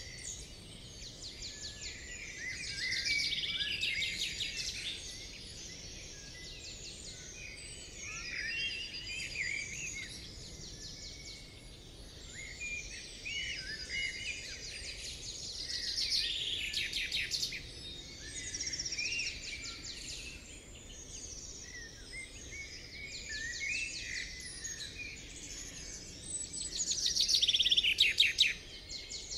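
Several songbirds singing at once, with chirps and whistles throughout. A rapid trill comes three times, about 3 s in, midway and near the end; the last is the loudest.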